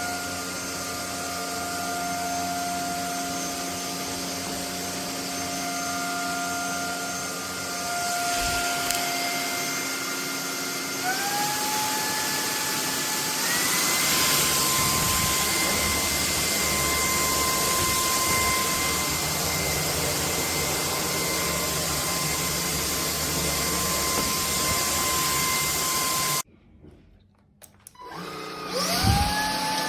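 Bulelink cordless stick vacuum running with a steady motor whine that steps up in pitch twice, about a third and halfway through. Near the end it cuts off suddenly and, after about two seconds, spins back up with a rising whine.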